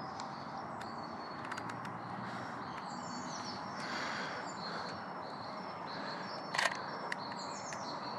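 Small birds chirping and singing in short, high, falling notes over a steady outdoor background hiss. A few faint clicks occur, with one sharper, louder click about six and a half seconds in.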